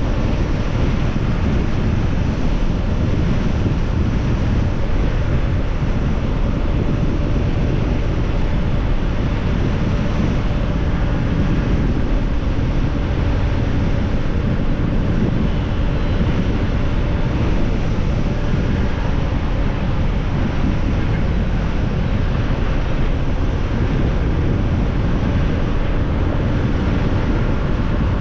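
Steady rush of wind buffeting the microphone of a moving motorbike, over the motorbike's running engine and road noise.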